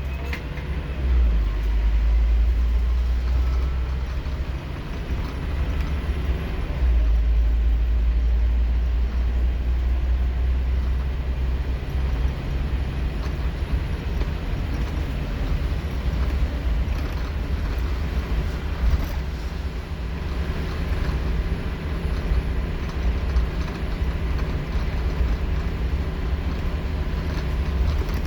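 Scania K230UB Omnilink bus's five-cylinder diesel engine running under way, heard from on board as a heavy low drone over road noise. The drone shifts in level a couple of times as the bus pulls.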